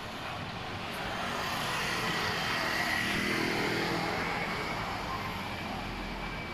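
A motor vehicle passing by on a street: its sound swells to a peak about three seconds in, with a faint whine, then fades.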